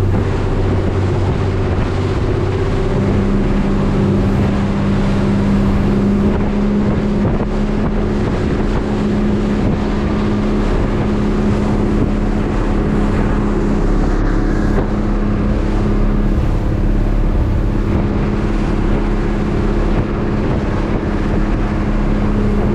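Fishing boat's engine running steadily under way, with a loud rush of wind and water on the microphone. The engine note shifts about three seconds in.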